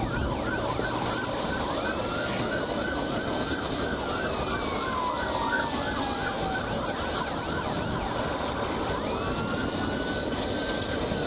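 Police car sirens: one in a rapid yelp, with slower wails gliding down and up over it, above steady road noise.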